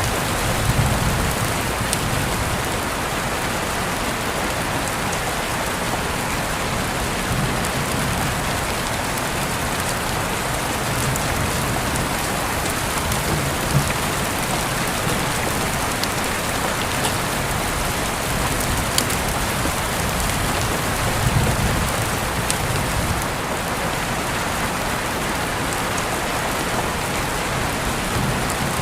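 Steady rain falling, an even hiss of rain on surfaces, with a few sharper single drop strikes standing out now and then.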